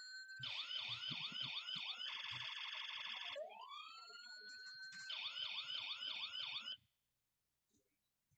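Toy trucks' electronic sirens blaring. Each cycle has a wail that rises and holds, a run of quick yelps and a fast warble, and the pattern repeats. The sirens cut off suddenly near the end.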